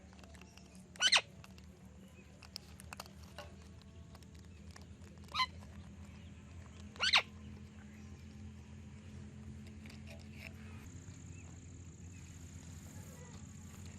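Parrots giving three short, harsh screeching calls, one about a second in and two more near the middle, over a steady low hum.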